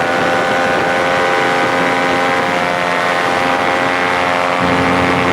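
Paramotor engine and propeller running at steady high revs, after a slight rise in pitch. A second, lower engine hum joins near the end.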